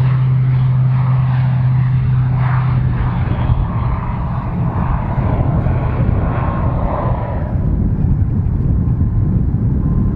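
A small general aviation aircraft going by, with a steady low engine hum and a rushing noise that fades away about seven and a half seconds in.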